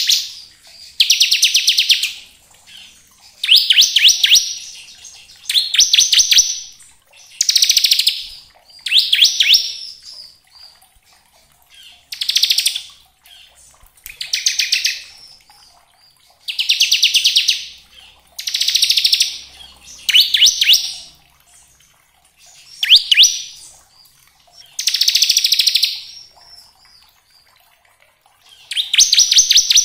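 Bar-winged prinia (ciblek) singing its rapid rattling 'ngebren' song: short bursts of very fast repeated notes, each about a second long, one every second or two.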